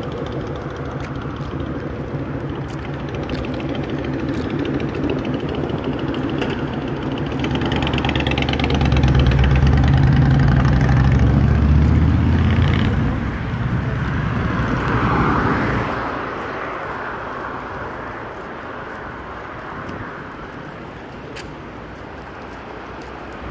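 Road traffic in the rain: vehicles passing on a wet avenue over a steady hiss. A heavy, low-pitched vehicle passes and is loudest about a third to halfway through, then the traffic eases off.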